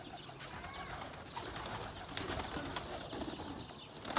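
Domestic pigeons cooing amid a steady hubbub of small chirps, with scattered light clicks and rustles.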